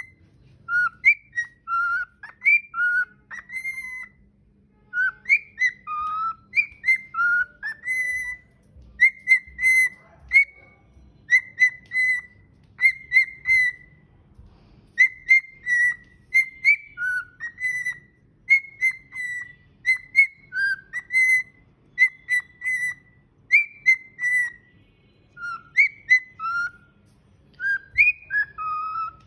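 Cockatiel singing: a long run of short, clear whistled notes, rising and falling, in phrases with brief pauses between them.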